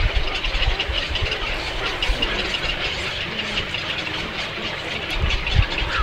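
Small birds chirping rapidly and continuously over a low, uneven rumble, such as wind buffeting the microphone.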